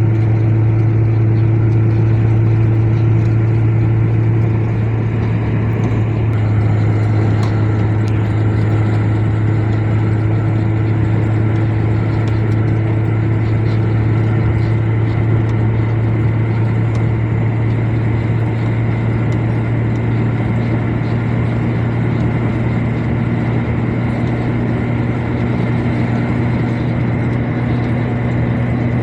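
Heavy truck's engine running steadily while driving, a loud low drone whose pitch shifts slightly a few seconds in and again past the middle.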